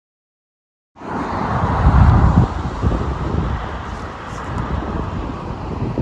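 Wind rumbling on the microphone over outdoor background noise, cutting in suddenly about a second in; no siren is sounding.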